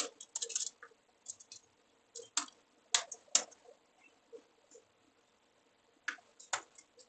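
Computer keyboard keys clicking in short, irregular bursts, with a few sharper single key or mouse clicks: two about three seconds in and two more near the end.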